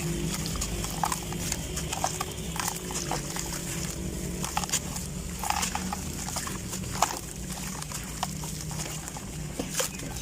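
Dry sand-cement clumps being crumbled, giving irregular crunches and crackles over a steady low hum.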